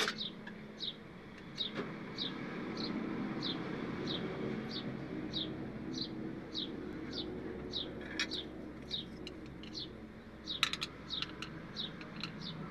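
A bird repeats a short, high, falling chirp about twice a second throughout. Over it come a few sharp metal clicks of spanners on the valve rocker adjusters: one right at the start, one about eight seconds in, and a quick cluster about ten and a half seconds in.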